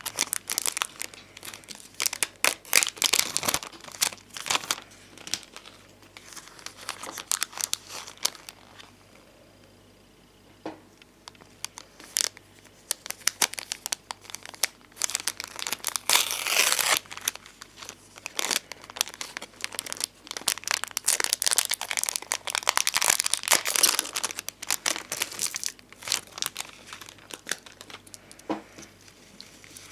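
Bonbon drop and ohajiki stickers and their plastic sheets being handled: crinkling and peeling sounds in irregular crackly bursts with small clicks, with a quieter spell about ten seconds in.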